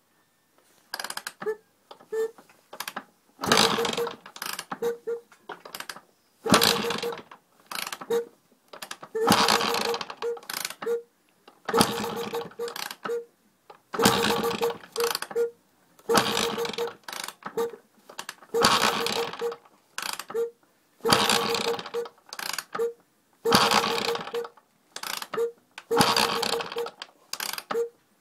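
Strange mechanical noise from a Sherco 290 trials motorcycle: a clattering, gear-like sound that comes in regular bursts about every two and a half seconds, with short clicks between them.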